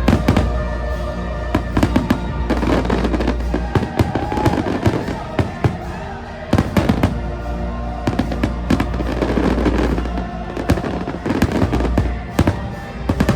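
Fireworks show: rapid, irregular volleys of sharp bangs and crackles from bursting aerial shells, over loud music from the show's soundtrack.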